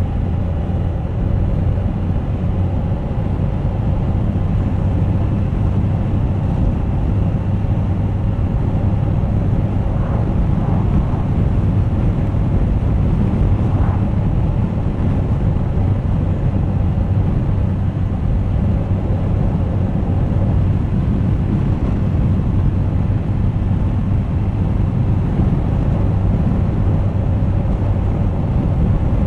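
Suzuki GSX1250FA motorcycle's inline-four engine running steadily on the move, with a steady rush of wind and road noise over the camera microphone.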